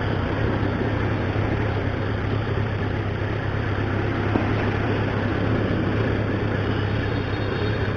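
Motorcycle riding along a road: a steady engine hum under continuous wind and road noise.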